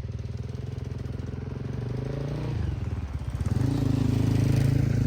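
Motorcycle engine pulling away and accelerating: its pitch climbs, drops sharply at a gear change about two and a half seconds in, then climbs again in the next gear as it gets louder.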